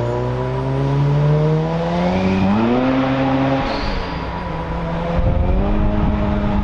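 A car engine accelerating hard, its pitch climbing steadily, dropping back about three and a half seconds in, then climbing again.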